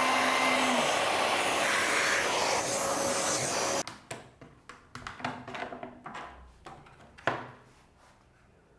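Palm router running steadily, cutting off abruptly about four seconds in, followed by a few scattered knocks and clicks, the loudest a sharp knock near the end.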